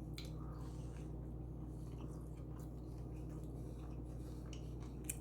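Faint close-up chewing of a tuna sub sandwich, with a few soft mouth clicks over a steady low hum.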